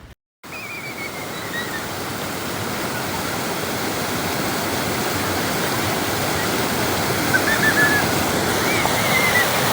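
Waterfall rushing steadily, an even roar of falling water that grows gradually louder.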